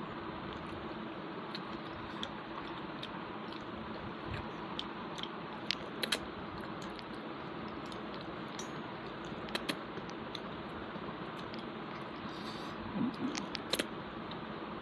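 Close-miked chewing and wet mouth sounds of a person eating rice and curry by hand, with scattered small clicks and smacks over a steady hiss.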